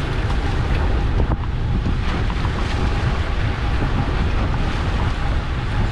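Steady wind rumbling on the microphone aboard a small fishing boat at sea, with the wash of the ocean around it.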